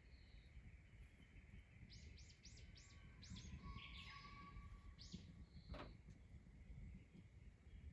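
A bird singing faintly: a quick run of five or six short high chirps about two seconds in, then a few more notes, over a quiet rural background. A single sharp click comes near the end.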